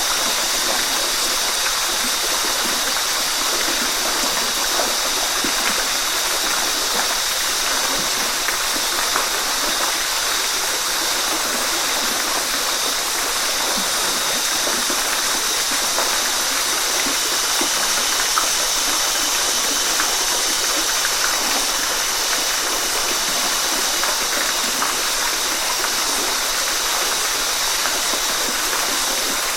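Waterfall: a steady, unbroken rush of falling water, mostly hiss with little deep rumble, with faint splashes flickering through it.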